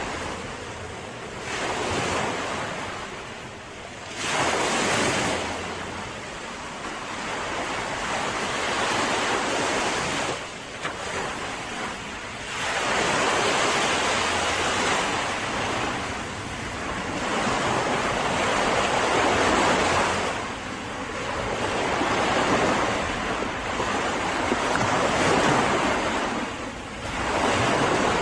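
Mediterranean sea waves breaking and washing on a beach, the surf swelling and ebbing every few seconds, with some wind on the microphone.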